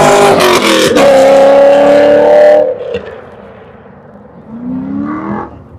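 A car's engine accelerating hard close by, very loud, with a shift about a second in, then the pitch climbs again before it fades away. A second, quieter engine rises in pitch near the end.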